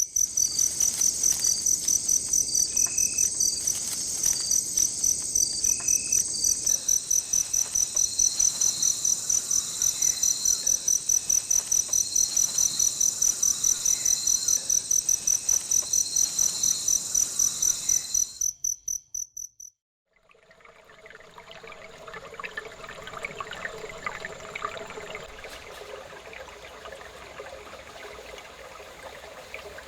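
A cricket-like insect chirping loudly in a fast, steady pulsed trill at about four pulses a second, with fainter insect calls behind it. The chirping fades out about eighteen seconds in. After a moment of near silence, a steady rush of running water follows.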